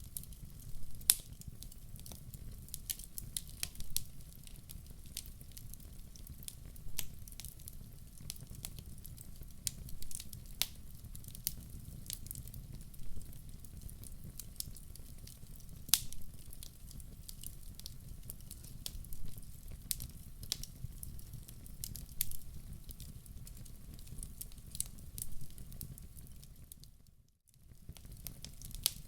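Wood fire burning in a fireplace, crackling with irregular sharp pops over a steady low rumble. The sound drops out briefly near the end, then resumes.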